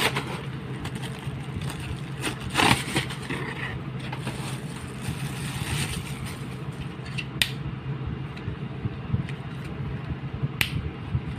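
Handling noise over a steady low hum: scraping and rustling about two and a half seconds in, then two short sharp clicks later on.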